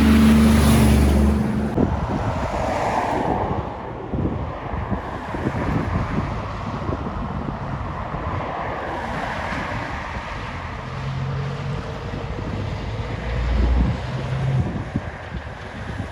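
A heavy truck passing close by on the road: engine and tyre noise loudest in the first second or two, then fading into a long rush of air. Wind buffets the microphone throughout.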